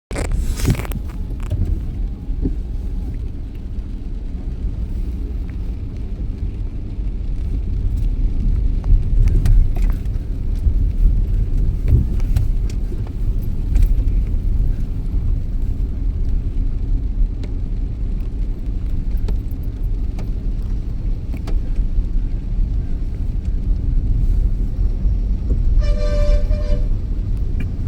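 Road traffic with a steady low rumble. Near the end a vehicle horn sounds a quick series of short toots.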